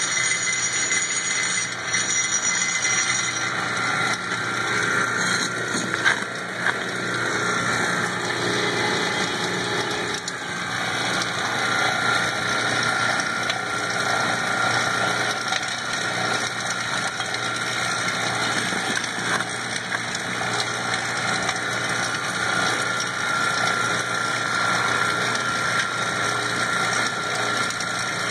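A mini rock crusher running steadily, grinding charcoal down into fine grains.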